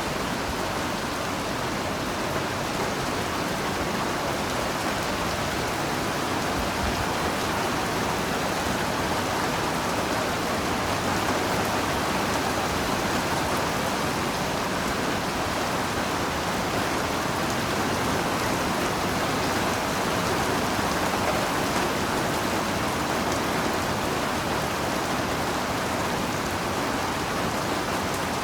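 Heavy rain falling steadily, an even hiss of drops on surfaces with no distinct drips or thunder.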